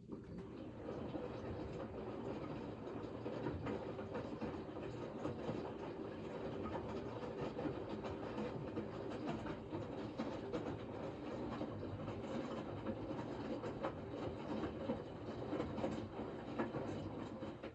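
Washing machine running: a steady rumble with dense, fast rattling that starts and cuts off suddenly.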